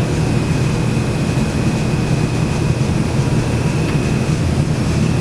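Belt-driven air handler blower running steadily on a newly fitted belt: a loud, even low hum with a faint steady high whine above it. There is no vibration or belt noise, so the fan bearings are sound.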